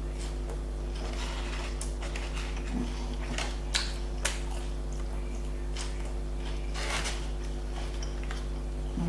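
Close-up chewing and eating sounds from a doner kebab: scattered crunches and short wet clicks, over a steady low hum.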